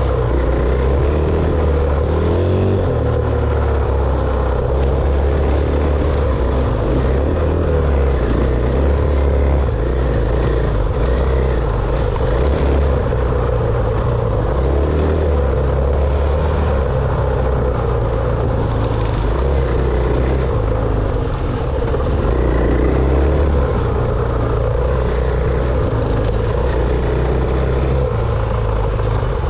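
Dirt bike engine running as the bike is ridden, its low drone shifting up and down every second or two, mixed with a heavy rumbling haze.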